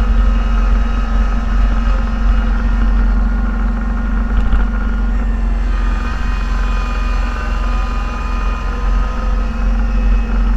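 Snow-plowing vehicle's engine running steadily, heard from inside the cab, a constant low drone with faint high whining tones over it.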